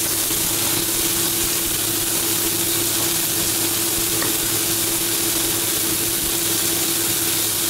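Chopped garlic and chilli sizzling steadily in hot oil in a wok, with a little water just added, over a steady low hum.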